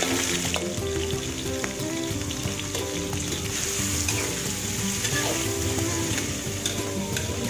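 Shrimp sizzling as they fry in oil in an aluminium wok, with a metal spatula scraping and tapping the pan as they are stirred. Soft background music plays underneath.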